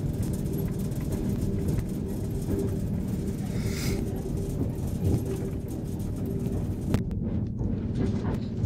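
Steady low rumble of a train, with a short hiss about four seconds in and a sharp click near the end.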